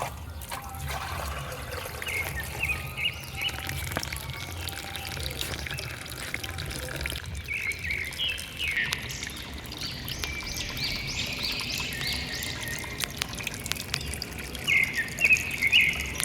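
Water pouring and trickling steadily from a small water pump's outlet into a miniature field, over a low steady hum. Birds chirp in short repeated calls, more often in the second half.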